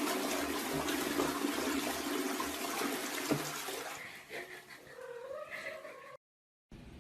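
Rushing water for about four seconds, fading, then a cat giving a drawn-out meow that rises and falls, cut off abruptly about six seconds in.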